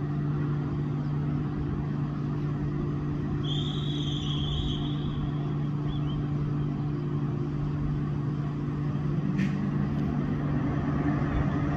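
Passenger train's locomotive standing and running with a steady low hum. A brief high-pitched whistle-like tone sounds about three and a half seconds in.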